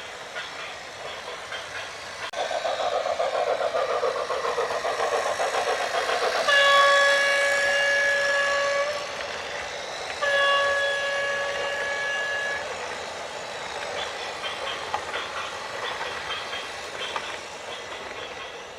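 A vehicle horn sounds two long steady blasts, each about two and a half seconds, with a short gap between, over a rushing noise that grows louder a couple of seconds before the first blast.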